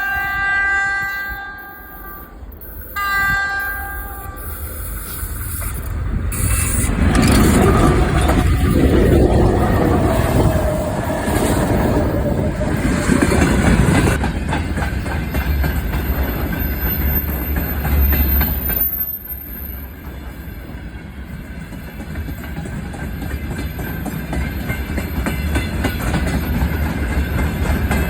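Train horn sounding a chord of steady tones, breaking off about two seconds in and sounding again briefly. The train then comes up and runs past over the rails, loud wheel and running noise that eases somewhat later on but keeps going.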